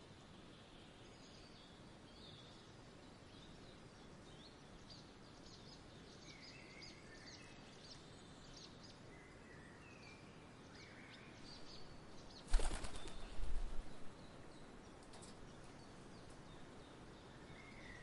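Small birds chirping intermittently over a soft outdoor background. About two-thirds of the way in comes a short, loud flurry of low fluttering thumps, like a bird's wings as it takes off.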